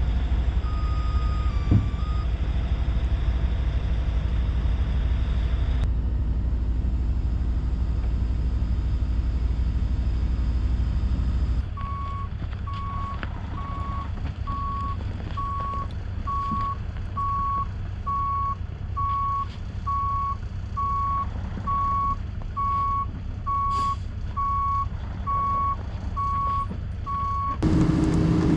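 A heavy truck's diesel engine runs with a deep, steady rumble. About twelve seconds in, the sound changes abruptly to a truck's reversing alarm beeping steadily, about once a second, over engine noise.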